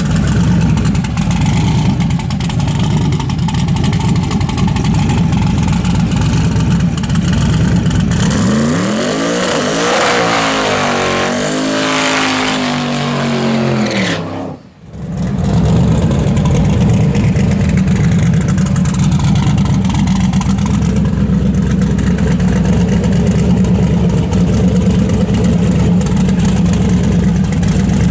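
The twin-turbo 6.0-litre LS V8 of a Nissan 240SX running loud: a steady low rumble, then from about eight seconds in the engine pitch rises and falls as it makes a drag pass. It cuts out suddenly for a moment near the middle, and then the steady rumble comes back.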